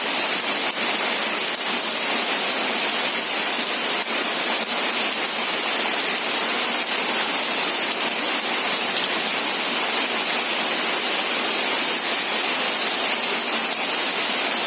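Steady rain falling, an even hiss with no low rumble and no thunder.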